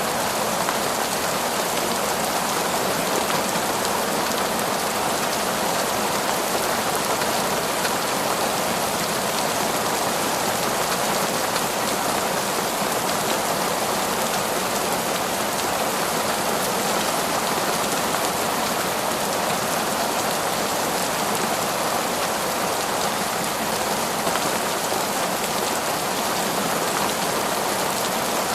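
Heavy torrential rain falling steadily on forest foliage and ground, a dense, even hiss with no breaks.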